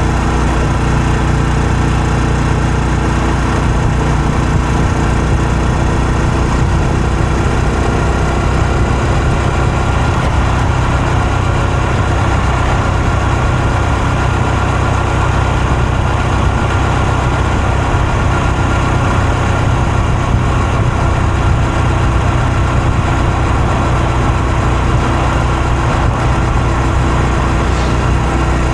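Honda Super Cub C125's air-cooled single-cylinder four-stroke engine running steadily, with its exhaust note in front; the engine pitch shifts slightly about eight seconds in.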